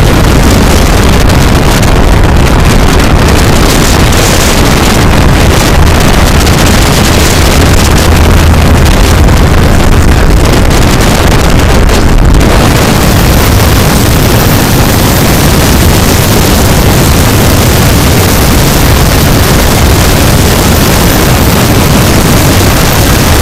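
Loud, steady rush of wind and road noise from a vehicle travelling at highway speed, with a low engine rumble underneath, pushing the microphone close to overload.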